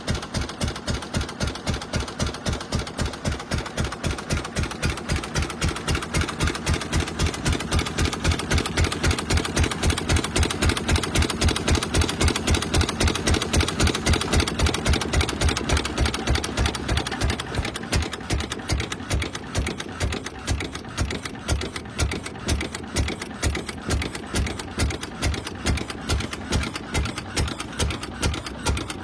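1911 Brush Runabout's single-cylinder engine running with an even, slow chugging beat of a few firings a second. A little past halfway the beat slows and gets quieter.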